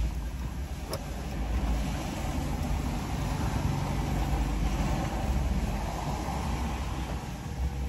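Car engine running, heard from inside the cabin as a steady low rumble with a light hiss above it. There is a brief click about a second in.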